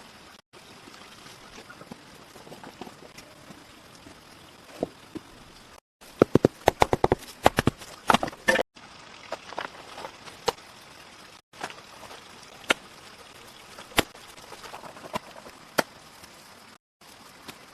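Sharp knocks and taps over a steady hiss, with a quick run of knocks a little past the middle and single knocks spaced out elsewhere.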